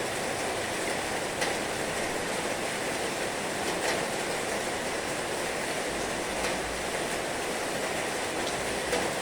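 Heavy rain falling, a steady even hiss with a few sharper ticks scattered through it.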